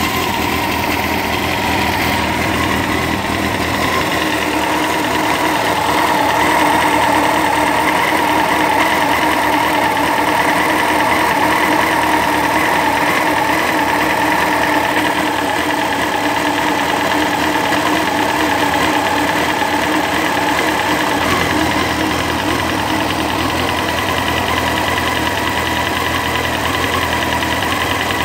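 Honda CBR954RR's inline-four engine running steadily at an even speed, with a weird noise in it that the owner wants identified.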